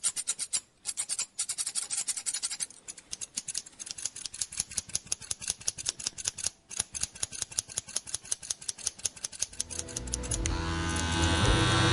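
A barber's hand tool working through hair in rapid, even strokes, about eight to ten a second, with a few brief pauses. Near the end, electric hair clippers start up and run with a steady buzz.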